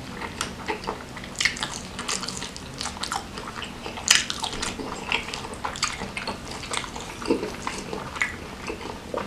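Eating sounds: chewing and wet mouth noises of rice and beef gulai with tetelan eaten by hand, with the wet sound of fingers working rice into the curry sauce. Many short clicks run throughout.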